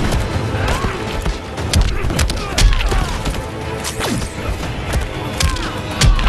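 Animated fight sound effects: a quick string of punch and kick impacts over background action music.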